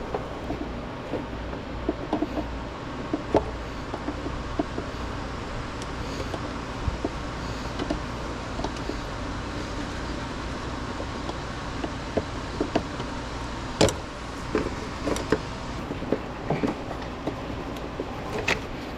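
Scattered light clicks and knocks of hand tools and parts being handled during hands-on car repair work, over a steady low background hum; one sharper click comes about fourteen seconds in.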